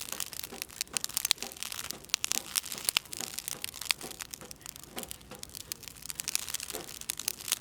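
Wood fire crackling with dense, irregular sharp pops, with oil from the baumkuchen batter dripping and spattering in the flames.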